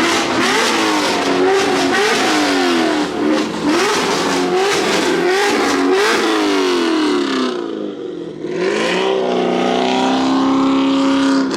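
Car engine revved hard over and over, its pitch climbing and dropping about once a second, with a loud rushing hiss over it. Near the end the revs climb and hold steady.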